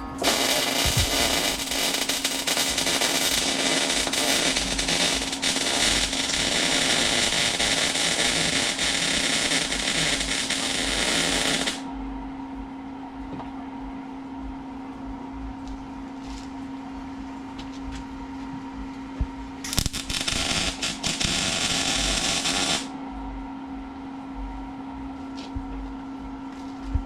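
Welder arc crackling as exhaust pipe seams are welded, in two runs: a long one of about twelve seconds that cuts off suddenly, then a shorter one of about three seconds later on. A steady hum runs underneath.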